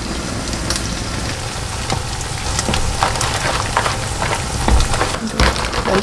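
Food sizzling in a pan: a steady crackling hiss with scattered sharp clicks, and a few light knocks of pans and utensils being handled.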